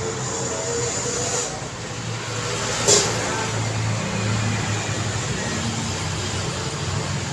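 Daytime road traffic: vehicles passing with a steady engine drone and tyre noise, and a single sharp click about three seconds in.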